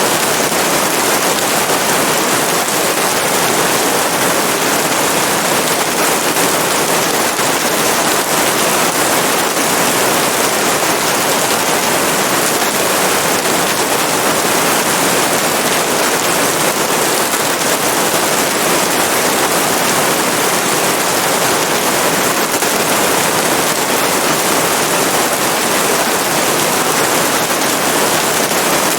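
Steady heavy rain: a dense, even patter and hiss that holds unbroken at one level.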